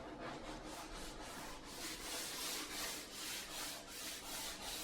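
Faint hand sanding of wood, steady strokes repeating several times a second.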